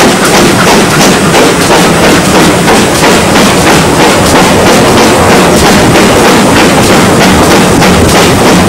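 Steam locomotive running close by, loud, with a rapid run of sharp beats.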